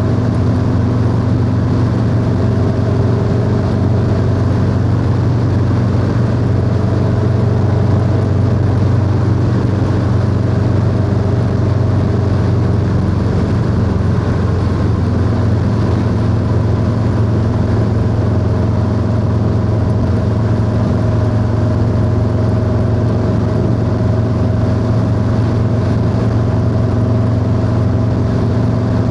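Harley-Davidson Low Rider S V-twin engine through a 2-into-1 exhaust, running at a steady cruising speed on the road, with a small change in engine note about halfway through.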